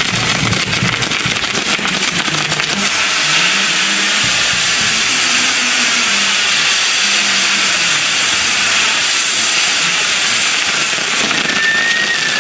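Castillo fireworks tower burning, its spinning wheels of firework fountains giving a loud, steady rushing hiss of sparks. A high thin whistle sets in near the end.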